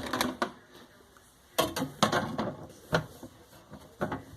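Dishwasher parts being handled and fitted back into place, with a series of clicks and knocks: a few near the start, a cluster about halfway through, and single ones near the end.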